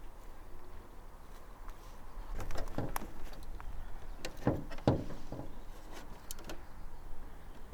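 A run of irregular knocks and clunks, the loudest two about halfway through: a car's body panel and latch being worked open by hand.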